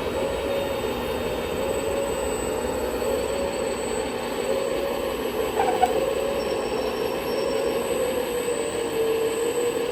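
A small electric motor whining steadily, its pitch wavering slightly, over a background hum of machinery.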